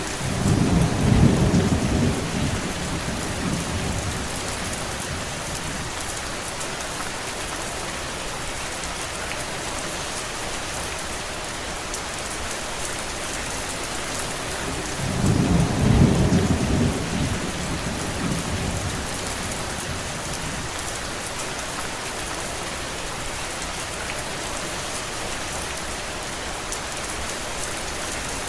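Steady heavy rain, with two low rolls of thunder rumbling for a few seconds each: one right at the start and one about halfway through.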